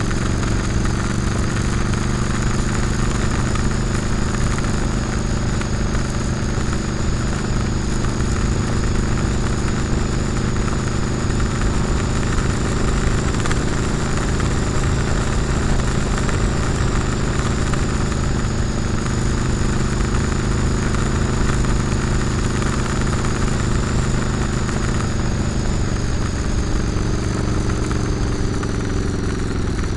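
Motorcycle engine running steadily at cruising speed on the road. Its pitch drops near the end as the bike slows.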